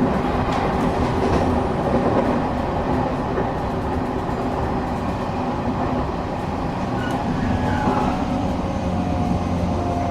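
Cabin of a Shinetsu Line local train running on the line: a steady rumble of wheels and running gear, with faint steady tones coming in over the last few seconds.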